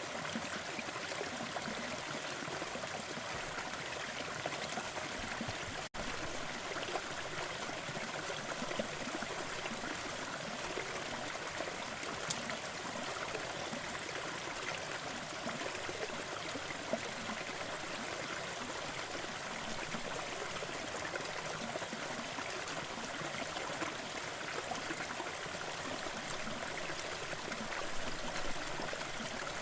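Waterfall: water falling and splashing in a steady, even rush, with a momentary dropout about six seconds in.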